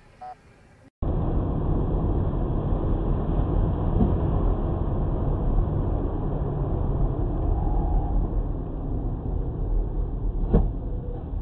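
Steady rumble of a car driving, which cuts in abruptly after about a second. There is a single sharp knock near the end.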